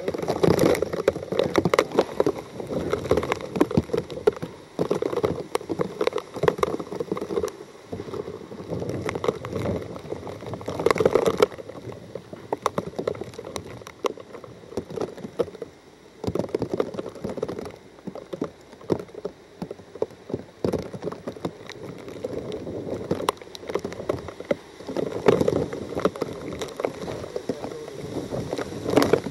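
Hurricane wind and rain, surging and easing in gusts every few seconds, with scattered crackles.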